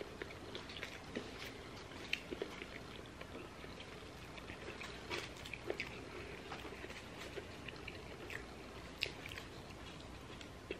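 Quiet eating at close range: soft chewing and small wet mouth clicks of people eating fast-food breakfast sandwiches, with light rustles of the paper wrappers.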